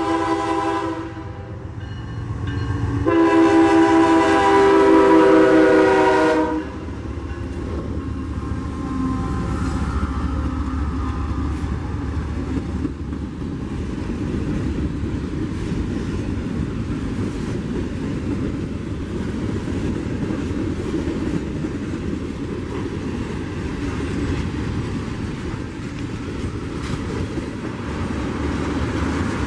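Diesel locomotive's air horn ending one blast about a second in, then sounding a longer blast of a few seconds. After the horn, the train passes with a steady rumble of wheels on rail.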